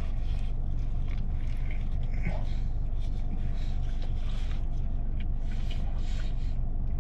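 A person chewing a mouthful of fried chicken sandwich with crisp pickles: irregular soft crunches and mouth smacks over a steady low hum.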